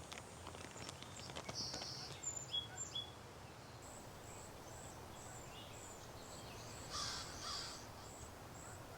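Forest birds calling: a crow caws about seven seconds in, over a run of short, high-pitched bird notes repeating about twice a second.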